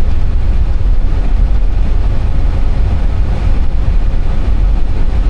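Airbus A320 cockpit noise: a steady low rumble with an even hiss above it.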